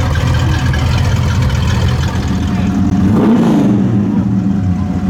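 Plymouth Road Runner's big-block V8 running loud through its exhaust, with one short rev about three seconds in before it settles back.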